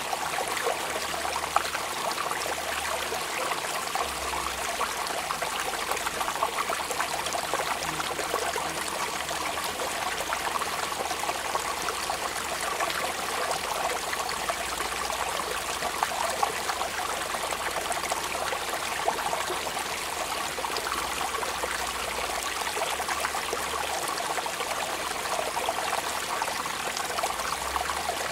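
Steady rain falling: a dense, even patter of many small drops that keeps up without let-up.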